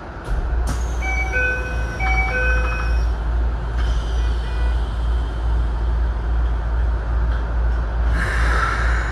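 A commuter train standing at a station, heard from inside the driver's cab. A steady low rumble comes in just after the start, a short electronic chime of a few notes sounds about a second in, and a burst of hissing air comes about eight seconds in.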